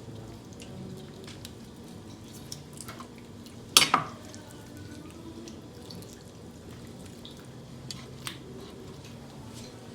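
Knife and hands working a raw chicken on a cutting board while the thigh joint is carved out: faint wet clicks and squishes. There is one sharp knock with a short ringing tail a little under four seconds in, and two smaller clicks near the end.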